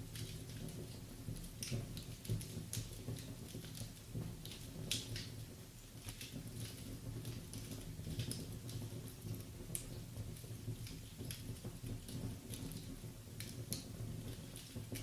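Wood fire crackling in a fireplace: irregular snaps and pops over a low steady hum.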